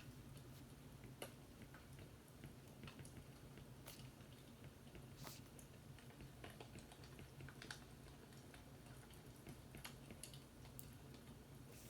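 Faint fireplace crackling: small irregular pops about once a second over a low steady background.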